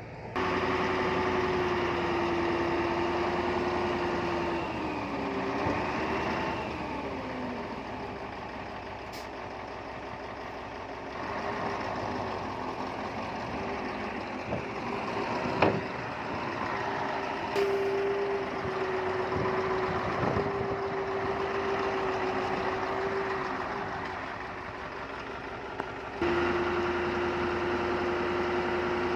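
Heavy construction machine's diesel engine running steadily under work, its pitch sagging and wavering about five to seven seconds in. A few sharp knocks come in the middle, and the sound jumps abruptly in level near the start and again near the end.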